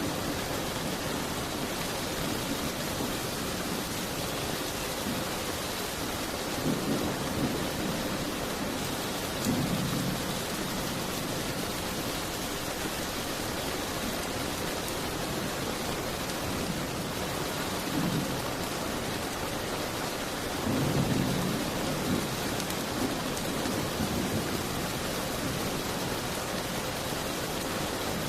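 Steady rain as an even hiss, with a few brief low rumbles rising out of it now and then.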